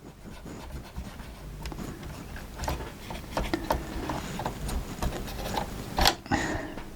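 Cotton bud scrubbing old dried grease off a VCR's tape-loading mechanism: irregular scratching and rubbing with small clicks, and a sharper knock about six seconds in.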